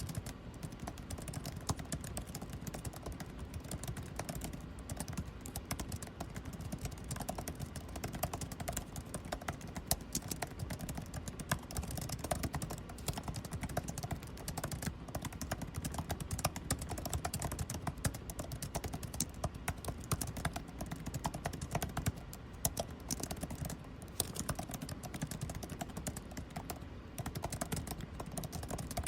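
Continuous fast typing on a computer keyboard, dense irregular key clicks, over the steady hum of air conditioning.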